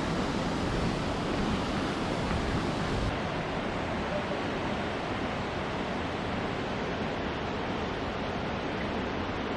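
Steady rushing of a waterfall and mountain stream, an even roar of falling water.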